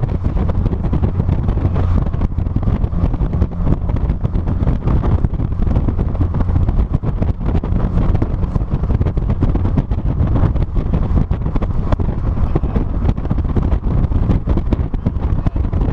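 Wind buffeting the microphone of a trunk-mounted camera on a moving 2006 Mazda NC Miata, with the car's road and engine noise underneath as a steady low rumble.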